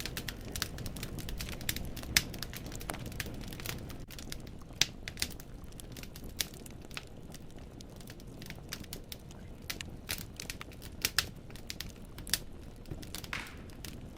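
Wood burning in a fireplace: logs crackling with many irregular sharp pops, a few much louder than the rest, over a steady low rumble of the flames. A short hiss comes near the end.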